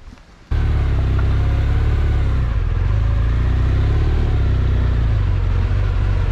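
BMW R1200GS motorcycle's flat-twin engine running under way with a heavy low rumble, cutting in abruptly about half a second in.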